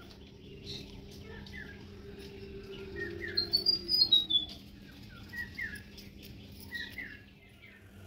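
Birds chirping outdoors: short chirps repeated throughout, with a louder run of high notes falling in pitch about three and a half seconds in, over a faint steady low hum.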